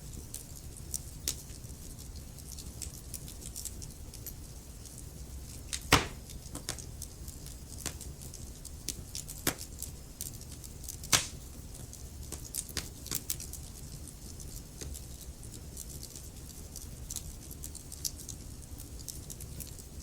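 Wood logs burning in a fireplace: irregular sharp crackles and pops over a steady low rumble of the flames, with the biggest pops about six and eleven seconds in.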